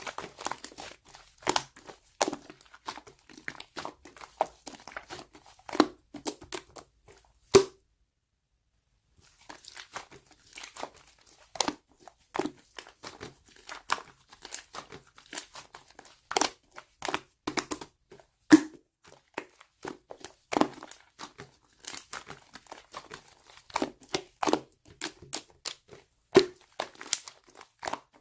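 Slime being squished, pressed and stretched by hand, making a dense, irregular run of sticky clicks, pops and crackles. The sound stops for about a second and a half around eight seconds in, then carries on.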